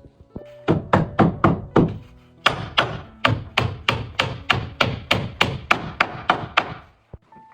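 Rapid, even hammer blows on wooden roof boards, about four a second, with a brief pause about two seconds in.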